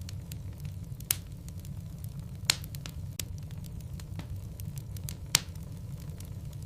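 Wood logs burning in a fireplace: a steady low rumble of flames with frequent small crackles, and three louder sharp pops about one, two and a half, and five seconds in.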